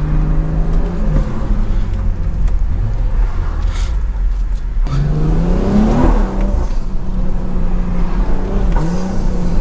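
Tuned BMW 340i's turbocharged B58 inline-six with a catless downpipe, heard from inside the cabin while driving. About five seconds in the revs climb steeply, peak and then drop away at a gear change. The revs seem to hang as the throttle is lifted during the shift, which the driver says the car does sometimes and cannot explain.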